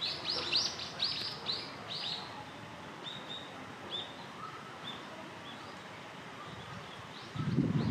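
Small birds chirping: a quick run of short, high chirps over the first two seconds or so, then scattered single chirps. A louder low noise sets in just before the end.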